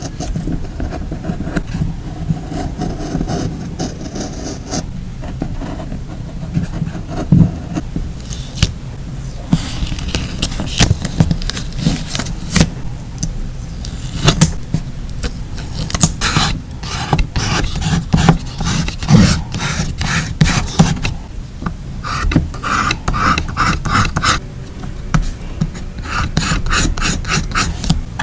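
Close-up sounds of handling stickers and paper on a journal page: scraping and rubbing, with sharp clicks and runs of quick, rhythmic ticks in the second half.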